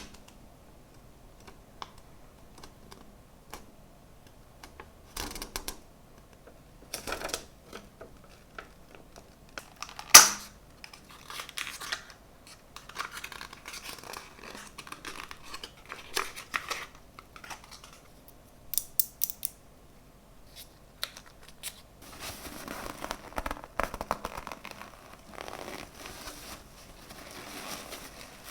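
Unboxing handling sounds from a product box and its packaging: scattered light clicks and taps, one sharp louder click about ten seconds in, and packaging rustling and crinkling near the end.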